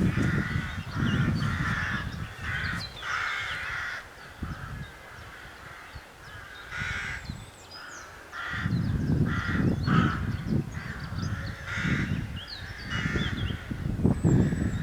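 Crows cawing in a string of short, irregularly spaced calls. Underneath them is a low rumble that fades about a third of the way in and comes back stronger in the second half.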